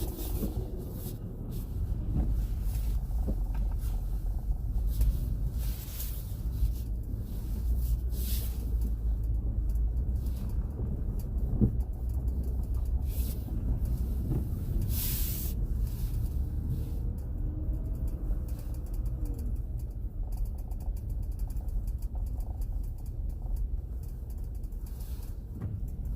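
A car driving, with a steady low rumble of engine and tyres and scattered light clicks and knocks.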